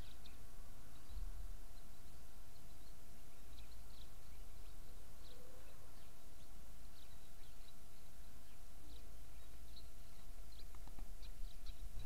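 Small songbirds chirping in short, scattered high notes, several a second at times, over a steady low rumble.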